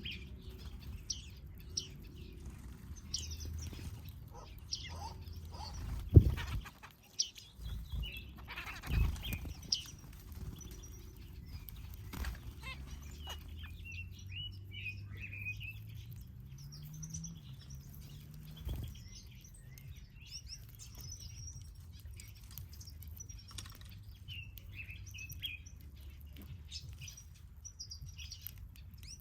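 Aviary finches chirping, with many short high calls throughout. A few low thumps stand out, the loudest about six seconds in, over a low steady hum.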